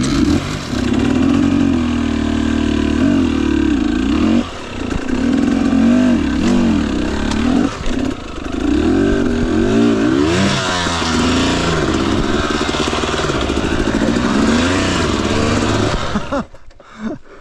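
Two-stroke dirt bike engine (Husqvarna TE250i) revving up and down hard under load in slick mud, its pitch rising and falling over and over. The engine drops away suddenly near the end.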